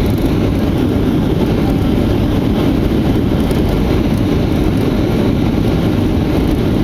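Steady, loud rumble inside the cabin of a Boeing 737-800 around landing: engine and airframe noise with no distinct events.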